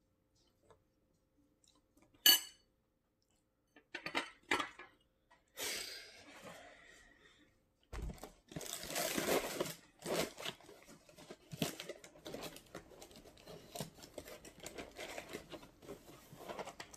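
Clinking and clatter of a spoon and bowl, with rustling: one sharp clink about two seconds in, a few scattered clicks, then a busy run of clatter and rustle from about eight seconds on.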